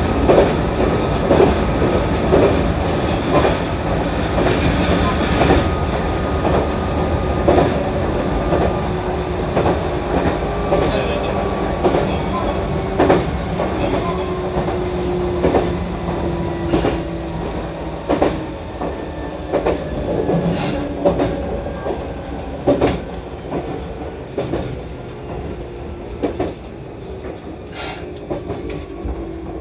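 Meitetsu 6000 series electric train running, heard from inside the cab: a steady rumble of wheels on rail with irregular clacks over rail joints. A drawn-out motor tone sinks slowly in pitch over the second half and the noise grows quieter, as the train slows on its approach to Mikawa-Kashima station.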